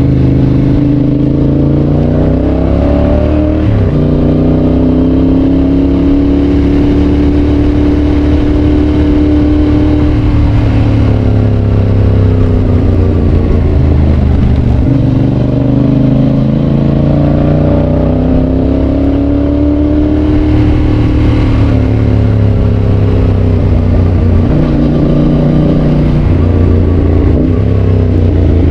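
Yamaha Tracer 7's 689 cc parallel-twin through a GPR aftermarket exhaust, under way. The engine note rises and falls as the bike speeds up and slows, with sudden pitch changes near the start and twice near the end.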